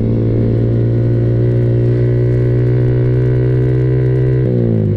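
Yamaha R15 V3's 155 cc single-cylinder engine through a new SC Project aftermarket exhaust, running at a steady speed while riding, then falling in pitch near the end as it slows. Being new, the exhaust still sounds fairly mellow rather than harsh.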